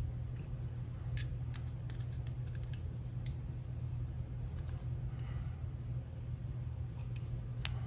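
Small metal drivetrain parts of an RC truck, a shaft and its fittings, clicking and tapping now and then as they are handled and fitted back together by hand, over a steady low hum.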